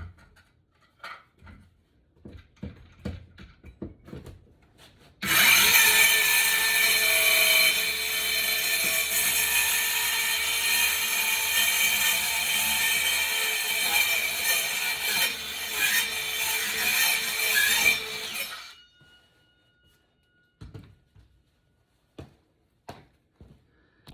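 DeWalt power saw cutting through floor material, the blade running over a few staples. It starts abruptly about five seconds in, runs steadily for about thirteen seconds, then stops and briefly winds down. A few light handling knocks come before and after the cut.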